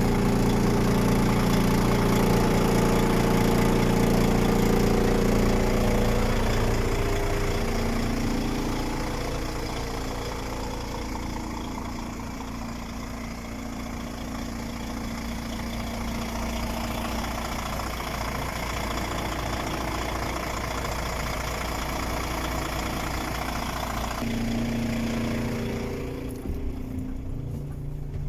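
DAF XF 105.410 truck's PACCAR MX 12.9-litre straight-six diesel idling steadily. It is louder for the first several seconds, then quieter, with an abrupt change in tone a few seconds before the end.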